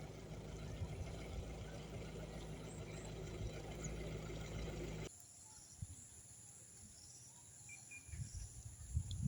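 Outdoor ambience with a steady high insect drone, crickets by the sound of it. For the first half a low hum and background noise lie under it; these cut out abruptly about five seconds in, leaving the quieter insect tone and a few soft thumps near the end.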